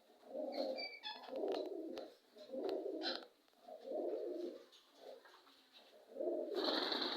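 A bird giving a series of five low, coo-like calls, each under a second long, with a few short high chirps between them. The last call, near the end, is brighter.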